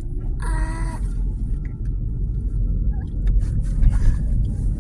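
Steady low rumble of car road noise, with one short held vocal sound, about half a second long, just after the start.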